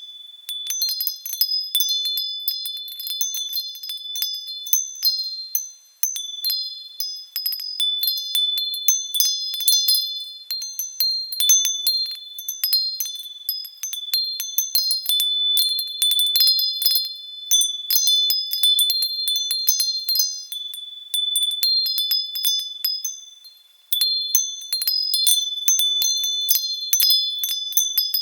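Wind chimes tinkling in the wind, with irregular overlapping high-pitched strikes that keep ringing. The chiming twice fades to a brief lull, about six seconds in and again near twenty-four seconds.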